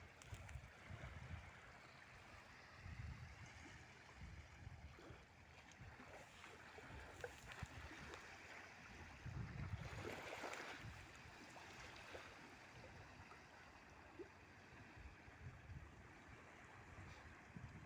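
A ship's wake washing and lapping against the riverbank, with a louder surge of splashing about ten seconds in. Gusts of wind buffet the microphone.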